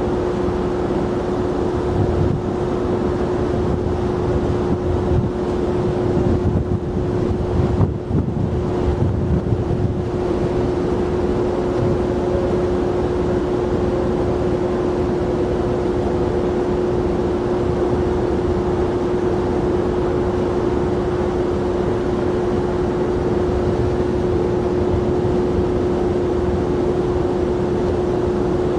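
Jet airliner engines running with a steady, unchanging hum, over a low rumble of wind on the microphone that gusts in the first third.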